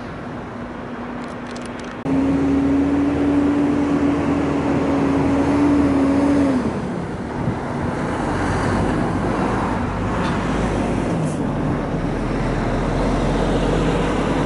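An engine running with a steady hum. It gets suddenly louder about two seconds in, its pitch drops a little around six seconds in, and it then settles into a low rumble.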